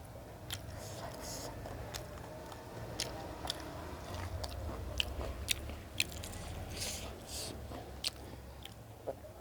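Close-miked chewing and biting of a person eating a meal, with irregular sharp wet mouth clicks every half second to second over a low steady hum.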